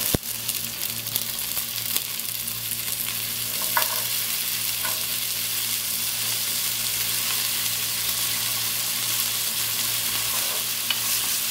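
Green peas, then diced carrots, dropped into hot sunflower oil with sautéed onions, sizzling steadily. The sizzle jumps up with a sharp tap as the peas go in, and there are a few small taps a few seconds later. A low, steady hum runs underneath.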